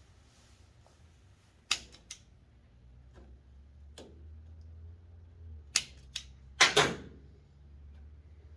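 Torch lighter being clicked: a few scattered sharp clicks, then a louder, longer burst near the end as it fires.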